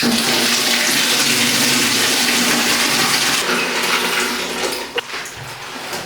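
Rushing water, starting suddenly, running loud and steady, then tapering off after about four seconds.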